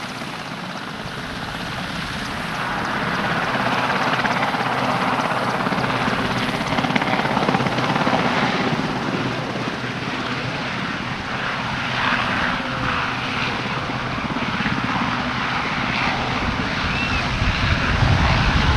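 Westland Sea King HAR.3 helicopter running, its twin Rolls-Royce Gnome turboshafts and main rotor together. The sound grows louder over the first few seconds, then holds steady with small swells.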